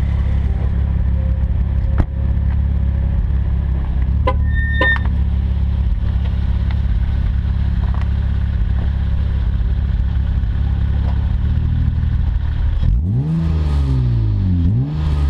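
The exhaust of an Acura TL V6 through a quad-tip catback, with the engine running at steady revs. Near the end there are two quick revs, each climbing in pitch and dropping back.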